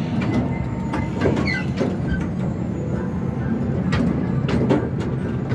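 Small amusement-park train running, heard from aboard: a steady low rumble with irregular sharp clacks from the wheels and cars.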